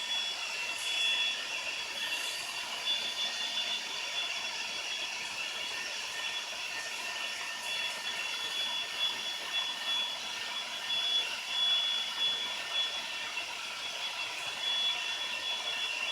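Rotary dermabrasion handpiece with a tungsten carbide bit running at high speed, a steady high whine over a grinding hiss as it abrades skin at the wound margin.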